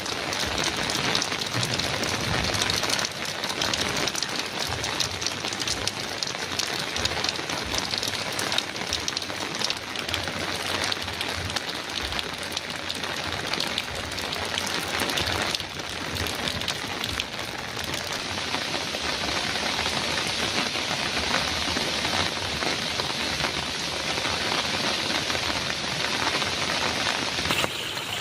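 Heavy rain falling steadily on a metal roof, a dense patter of countless drops. The sound shifts abruptly near the end.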